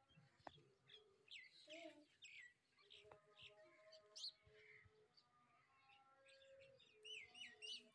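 Faint chirping of small birds: many short, quick calls throughout, with a cluster of falling chirps near the end, over faint steady tones in the background.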